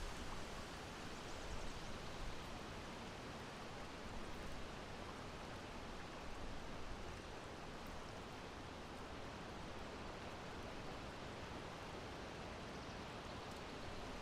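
Steady breeze: an even rush of wind noise, heaviest in the low end, swelling slightly now and then.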